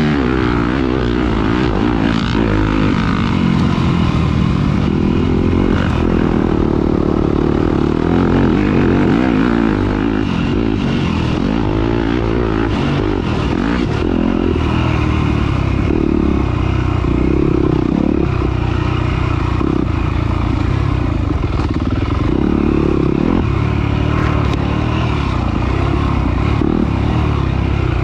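Off-road motorcycle engine running hard during a race, its pitch rising and falling with the throttle.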